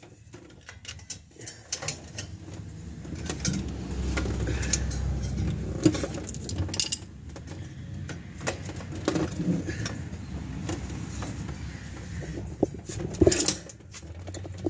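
Small metal clicks, taps and scrapes as the retaining clips are worked off a rear drum brake's shoe assembly, with a few sharper clicks near the end.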